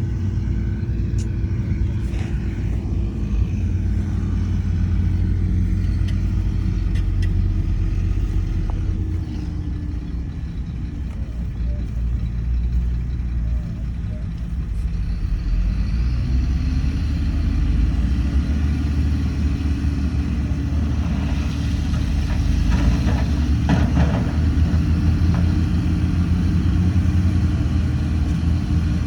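Heavy diesel earthmoving engine running steadily under load. It eases off about ten seconds in and revs back up a few seconds later, with a run of metallic clanks about two-thirds of the way through.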